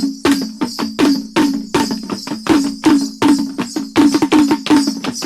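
T'boli drumming: quick, sharp strikes in an uneven rhythm, about four a second, each with a short ringing pitch.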